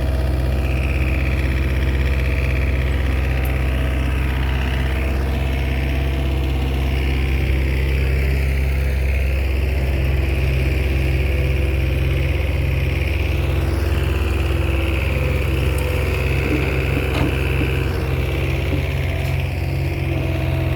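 Diesel engine of a small Komatsu crawler bulldozer running steadily while it works, with a higher band that rises and falls now and then over the engine's even tone.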